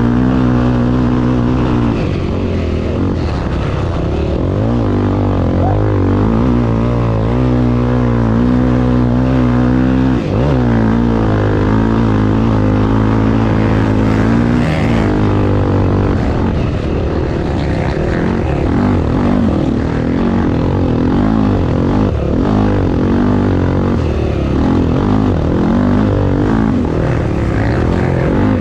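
Honda Tornado 250 motorcycle's single-cylinder four-stroke engine running hard, its revs rising and falling repeatedly through gear changes and throttle.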